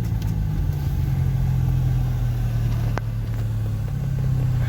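Ford Ka XR's 1.6 four-cylinder engine running steadily at low revs through a straight-piped exhaust with no muffler, giving a deep steady drone. There is a single sharp click about three seconds in.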